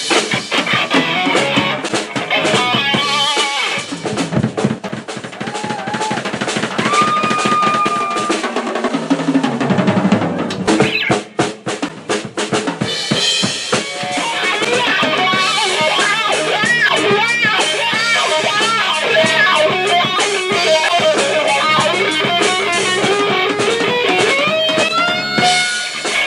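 Live rock band playing: drum kit and electric guitar. A run of heavy drum hits comes about halfway through, followed by a melody bending up and down over the beat.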